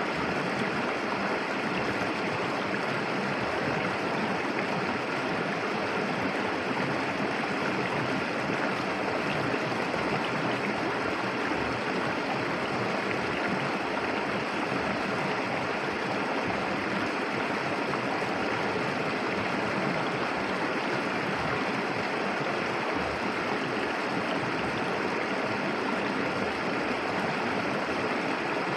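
Clear river water flowing and babbling over stones in a steady, even rush.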